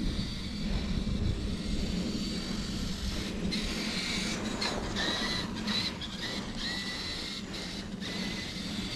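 Electric motor of a radio-controlled truck driving through snow: a steady low rumble, with a thin motor whine that comes in about three and a half seconds in, rises a little and drops out again near the end.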